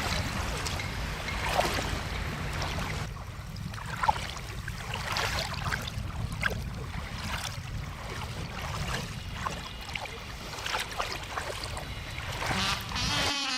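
Water splashing and lapping: a steady rushing with many small, irregular splashes. A low rumble under it drops away about three seconds in.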